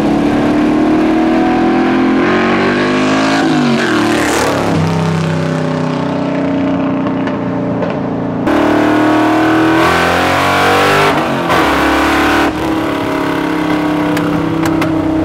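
Big-block 427 V8 running through straight pipes, pulling hard under throttle. Its pitch falls sharply about four seconds in, then it climbs and pulls hard again.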